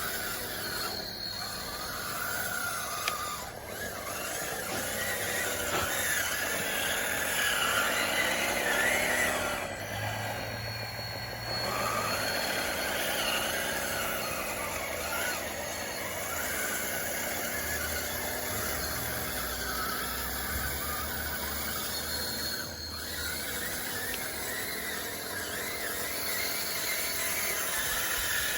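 DXR2 RC bulldozer's electric drive motors and gearing whining as it drives and pushes dirt, the pitch rising and falling again and again, with a high squeal.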